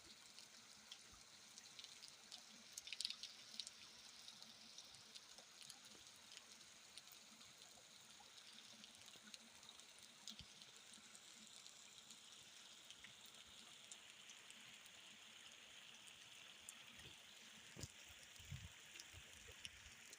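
Faint steady rain falling, with scattered drops ticking and a short cluster of louder drops about three seconds in.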